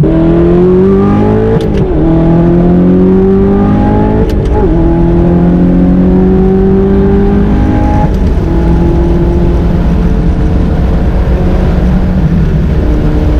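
Audi R8's V8, fitted with an Armytrix titanium exhaust, accelerating hard at full throttle. Its note climbs through the revs, with gear changes about 2, 4.5 and 8 seconds in, then holds a high, fairly steady note.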